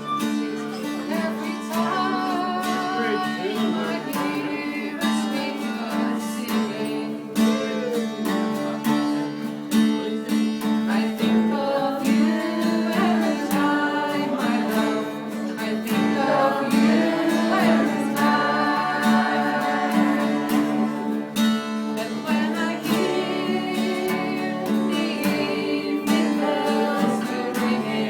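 A song sung over a strummed acoustic guitar.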